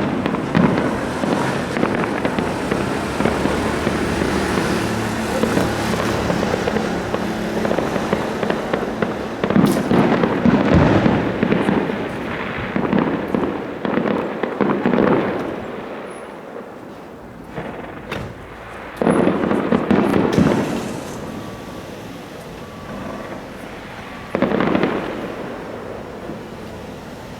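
Fireworks going off: a dense run of bangs and crackling, with loud volleys about ten seconds in, around twenty seconds and near twenty-five seconds, thinning out between them.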